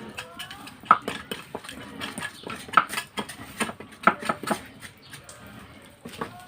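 Repeated sharp clinks and knocks of metal utensils, knives and pans, while a goat is butchered. Three strikes stand out as loudest, about a second or more apart.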